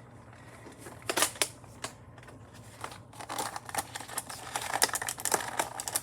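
Action-figure packaging being opened by hand: a few sharp clicks and scrapes, then, from about three seconds in, dense crinkling and rustling of cardboard and plastic.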